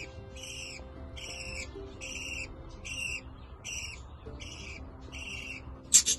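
Budgerigar repeating the same short, high, slightly falling call about every three-quarters of a second, about eight times in a row. About six seconds in, a sudden loud burst of squawking chatter follows.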